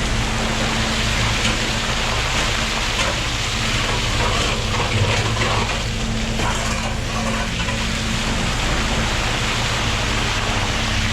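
Hot water gushing steadily out of a concrete mixer truck's drum onto an icy asphalt road, a continuous rush of water with a steady low hum underneath.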